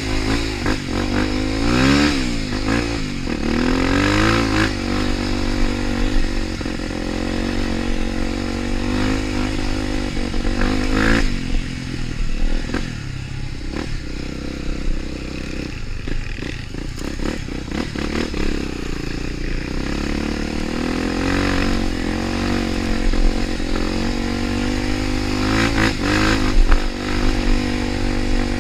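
Trail motorcycle engine running and revving up and down, its pitch rising and falling with the throttle, settling lower in the middle before picking up again.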